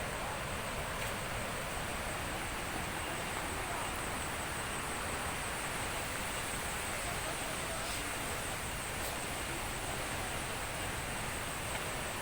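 Steady rushing of a waterfall, with a thin, steady high-pitched buzz on top.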